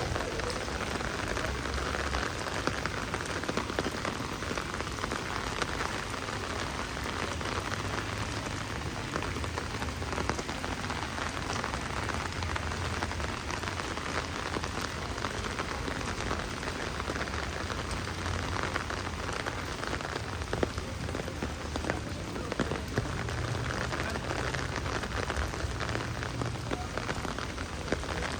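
Heavy rain falling steadily, a dense hiss with many sharp drop ticks.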